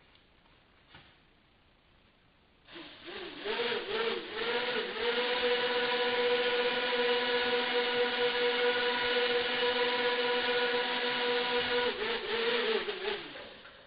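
A small motor starting up about three seconds in, its whine wavering and rising as it spins up, running at one steady pitch for about seven seconds, then winding down near the end.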